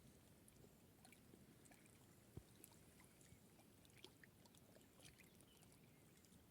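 Near silence: faint outdoor ambience with scattered small ticks and one soft click about two and a half seconds in.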